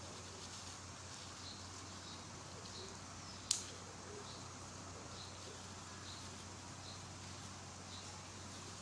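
Faint mouth sounds of someone eating rice porridge, small wet clicks while chewing, with one sharp click about three and a half seconds in.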